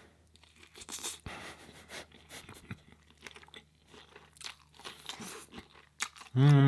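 Close-miked chewing and crunching of a mouthful of Beyond Meat burger, with irregular wet clicks and crackles. Near the end a loud, low hummed "mmm" of enjoyment starts, falling in pitch.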